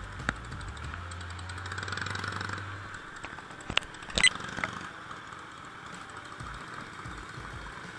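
Vintage motorcycle engines running at low revs, with a steady low drone that drops away about three seconds in. A few sharp metallic clanks come in the middle, the loudest about four seconds in.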